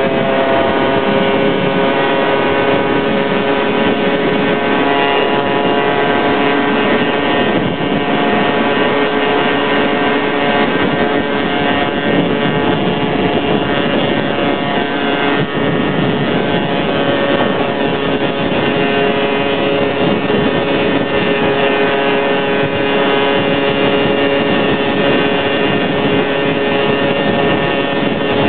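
Yamaha SS110 two-stroke motorcycle engine running at a steady high-speed cruise, its pitch holding constant, with wind rushing over the helmet-mounted microphone.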